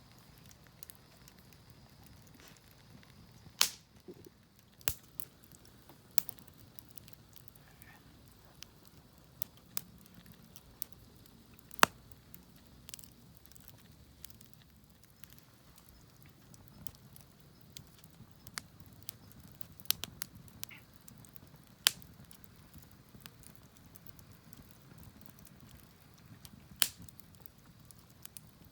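Wood fire crackling in a Picogrill: scattered sharp pops and snaps at irregular intervals over a quiet background.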